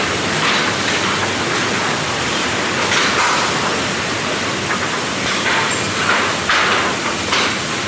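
Sawmill machinery running with a loud, steady hiss-like noise that swells in short surges a few times.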